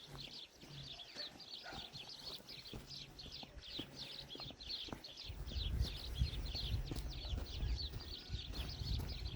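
High-pitched chirping, short calls repeated about three or four times a second without a break. A low rumble comes in about halfway through.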